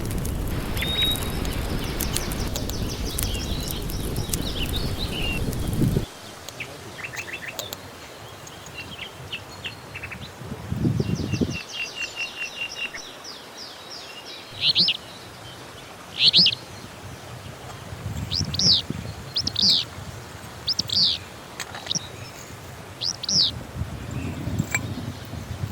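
Songbirds calling: quick chirps and trills, then a run of about eight clear, downward-sweeping calls a little over a second apart. For the first six seconds a loud steady noise lies under the birds, then cuts off suddenly.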